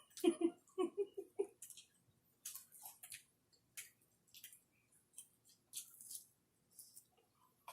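Close-up eating sounds of chicken nuggets being chewed: scattered small clicks, lip smacks and rustles. There is a quick run of short low hums in the first second or so.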